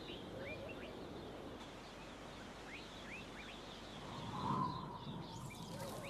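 Faint outdoor ambience with a few short, rising bird chirps scattered through it, and a brief louder sound about four and a half seconds in.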